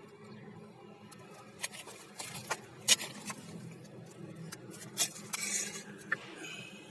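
A few sharp clinks and clacks of hard objects being handled, the loudest about three seconds in, with a brief rustle near the end, over a faint steady low hum.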